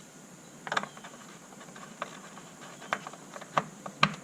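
Engine oil filler cap being handled: wiped and fitted back onto the engine, giving a short scuffle about a second in, then a scatter of light plastic clicks and knocks, the loudest near the end.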